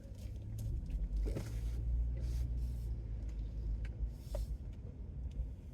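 Car running, heard from inside the cabin: a steady low rumble with a few light clicks and knocks.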